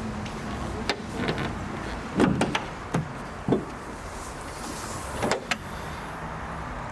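Clicks and clunks from a BMW X5 being handled, over a steady low hum: a cluster a little after two seconds, single knocks around three seconds, and a pair near the end.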